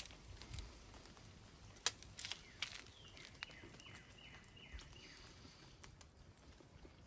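A bird calling a quick run of about five short, matching high notes in the middle, after a few sharp clicks and crackles in the first half.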